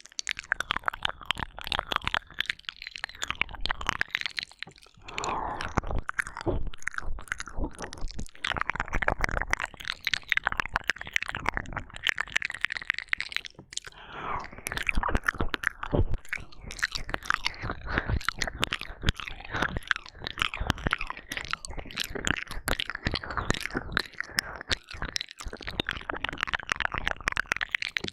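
ASMR ear-licking and ear-eating mouth sounds: a dense, unbroken run of wet clicks, smacks and slurps from lips and tongue, close to the microphone. They start suddenly at the beginning.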